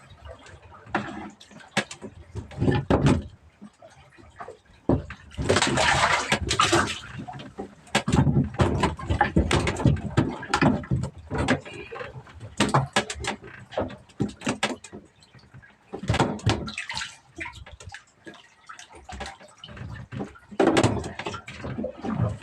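Water splashing and irregular knocks and clatter on a small fishing boat, with the loudest splash about six seconds in.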